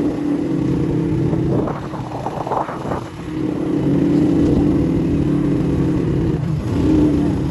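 A motor vehicle's engine running steadily, easing off briefly about three seconds in and then picking up again.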